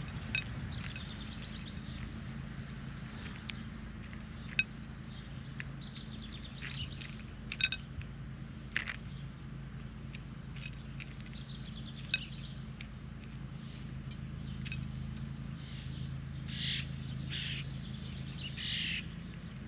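Birds chirping and calling, with scattered short sharp clicks, over a steady low hum. A few longer, louder calls come near the end.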